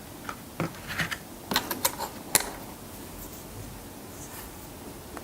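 A quick series of sharp clicks and taps as the mochi ice cream and its container or packaging are handled, most of them in the first two and a half seconds, then only a low background.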